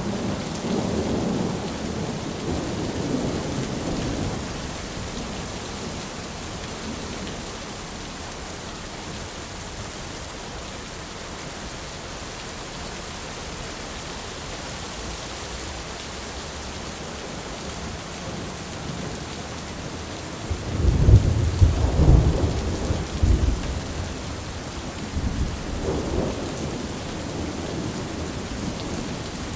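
Steady heavy rain throughout, with thunder: a rolling rumble at the start, a loud crack and long rumble about two-thirds of the way in, then a further rumble near the end.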